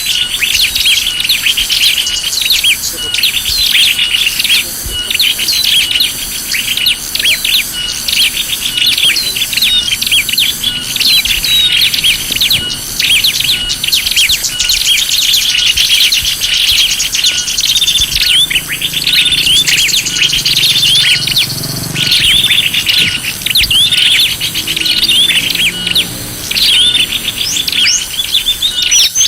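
Dense chorus of many small birds chirping and trilling over one another without pause, a bird-lure recording meant to draw small birds in.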